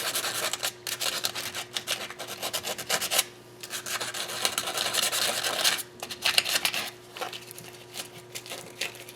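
Rapid back-and-forth scrubbing and scraping by hand on a metal engine part, with short pauses about three and six seconds in.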